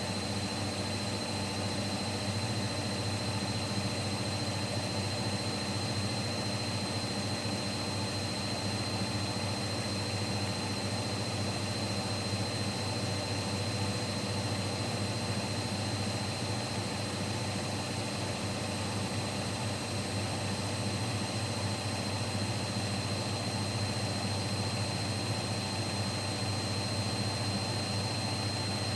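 Siemens Siwamat Plus 574 washing machine in its final spin at 800 rpm: a steady motor and drum hum with a thin high whine held throughout.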